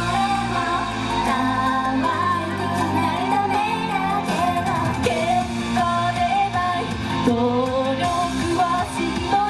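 Japanese idol pop song sung live by a female idol group over a backing track, the sung melody wavering above a steady band accompaniment.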